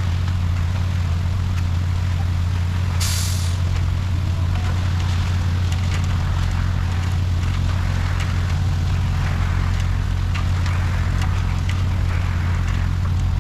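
Concrete truck's diesel engine running steadily with a low drone. About three seconds in there is a short hiss of released air, with scattered light clicks and rattles.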